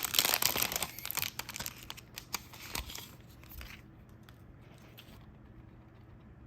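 Snack packaging being torn open and crinkled: a sudden loud rip and rustle, then crackles that thin out and stop after about four seconds.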